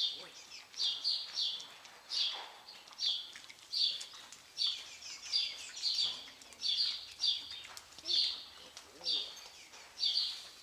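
A small bird chirping over and over, short high chirps coming in quick runs of two or three, several each second, keeping a steady rhythm.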